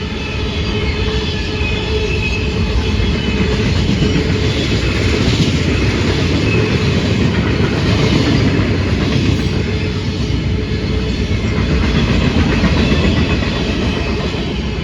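Freight train rolling past: a loud, steady rumble and rattle of wheels on rail.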